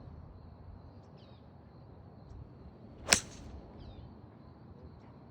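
A golf club striking a ball: one sharp crack about three seconds in, with a short ring after it.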